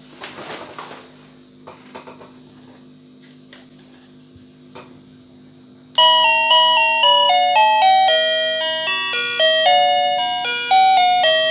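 Wireless remote-control calling bell playing its electronic chime melody, starting suddenly and loudly about halfway in after a few faint clicks over a steady hum. It now rings loud after a repair to raise its weak volume.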